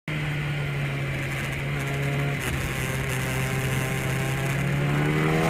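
A steady, machine-like hum with a clear pitch, rising slowly in pitch toward the end.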